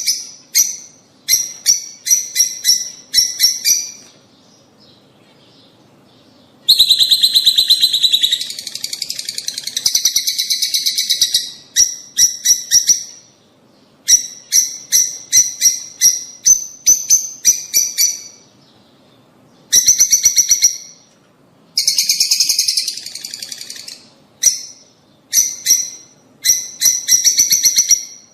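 Lovebirds calling: bouts of rapid, shrill chirps repeated several times a second. A dense stretch of continuous chattering comes about a quarter of the way in, and the bouts are broken by a few short pauses.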